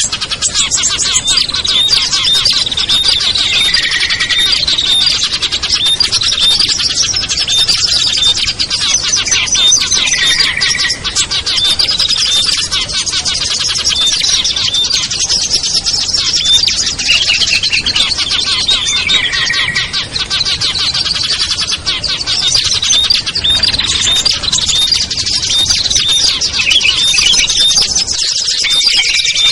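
A dense, busy chorus of small songbirds chirping and calling over one another without a break, including prinias and bulbuls. A lower chirping phrase comes back several times, as in a looped bird-trapping lure recording made to draw wild small birds down.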